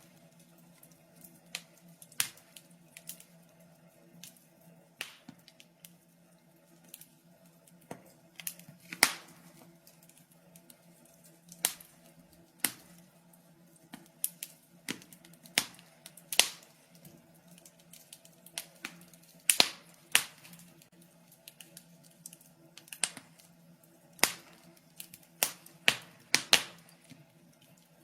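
Wood fire in a fireplace crackling, with irregular sharp pops and snaps, a few louder than the rest, over a faint steady hum.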